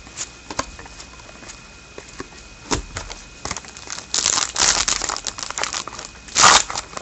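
A few light clicks of cards being handled, then from about four seconds in a trading-card pack wrapper crinkling and tearing as it is ripped open, loudest near the end.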